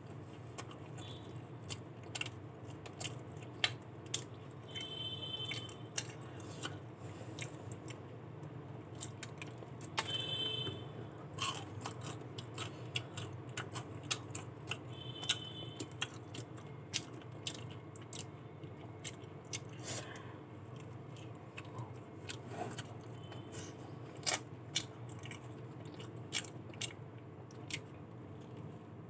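Close-up biting and chewing of crispy fried chicken: wet mouth sounds and many small, irregular crunchy clicks over a steady low hum. A few brief high chirps come about 5, 10 and 15 seconds in.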